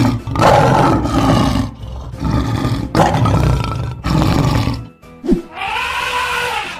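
Lion roaring, as an animation sound effect: three long, rough roars over the first five seconds, with background music underneath. Near the end a shorter pitched call rises and falls.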